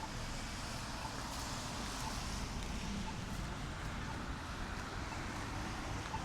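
City street ambience: a steady rumble of traffic with wind noise on the microphone, and faint short pips about once a second.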